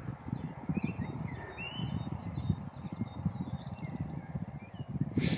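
Birds chirping and calling, with short high chirps and whistles scattered throughout. They sit over a louder low rumble of wind buffeting the microphone.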